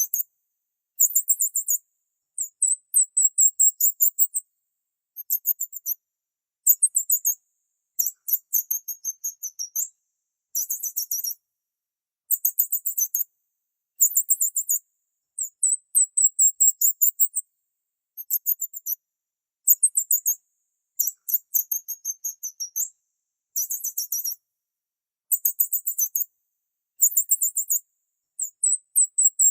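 Small bird chirping in bouts of rapid, very high-pitched notes, each bout about a second long, repeated every second or two with dead silence between.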